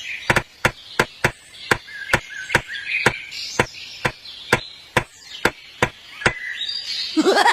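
Sharp, evenly spaced knocks of something striking a hard surface, about three a second, stopping about six seconds in.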